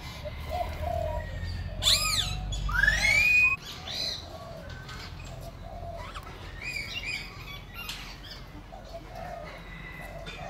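Birds calling and chirping, with a few loud arching whistled calls and a rising call about two to three seconds in, and short repeated notes throughout. A low rumble sits under the first three and a half seconds and then cuts off.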